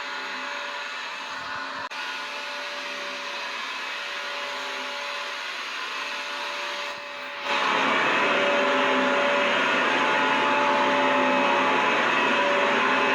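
Vacuum cleaner running steadily, a rushing air noise with a steady whine. About halfway through it turns noticeably louder and stays so.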